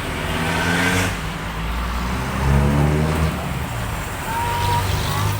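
A motor vehicle's engine running close by, loudest about halfway through.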